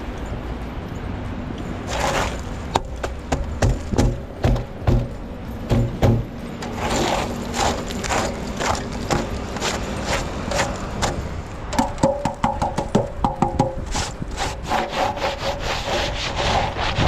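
Rough scraping and crunching strokes, many short irregular ones from about two seconds in, over a steady low rumble.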